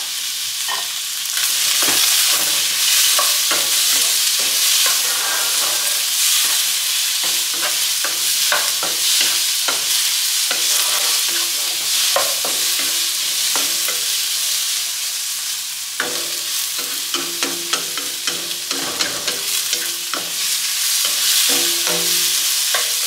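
Grape tomatoes, red onion and garlic sizzling in olive oil in a wok, with a steady hiss and repeated scrapes and taps of a wooden spatula against the pan as they are stirred.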